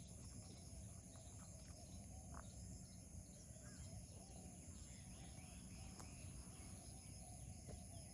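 Near silence: faint steady background noise with a few faint, short bird chirps.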